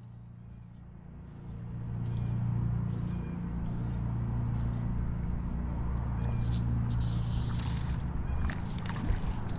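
An engine running steadily with a low hum, growing louder about a second and a half in and then holding even. Faint short high chirps or clicks repeat over it.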